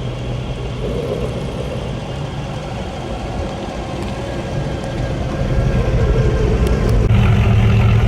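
A car engine running at low speed with a steady low hum. It grows louder from about five seconds in and again near the end.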